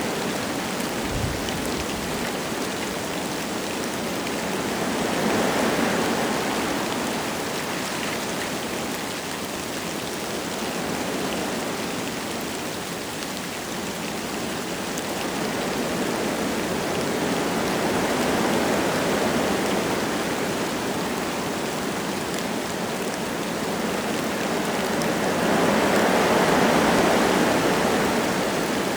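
Wind gusting through forest trees with light rain falling. The wind swells and fades in slow gusts, several times, strongest near the end.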